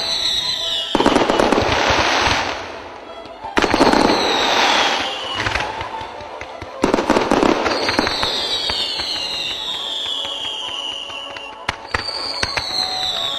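Fireworks going off: whistling shells give long falling whistles, one after another every three to four seconds. Three loud bursts of dense crackling come about a second in, around three and a half seconds and near seven seconds.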